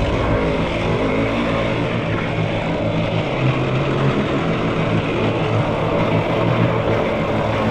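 Yamaha YFZ450R quad's single-cylinder four-stroke engine running as the quad is ridden, its pitch rising and falling a little.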